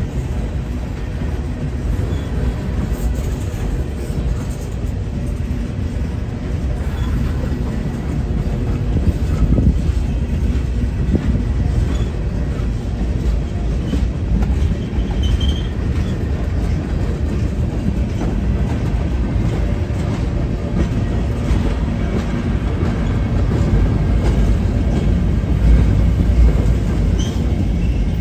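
A train rolling along the track: a steady low rumble with wheels clicking over the rails and a few brief high squeals.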